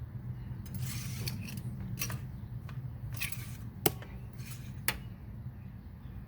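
Engine oil dipstick being handled in its tube while the oil level is checked: a run of light metallic scrapes and clicks, with two sharper clicks past the middle.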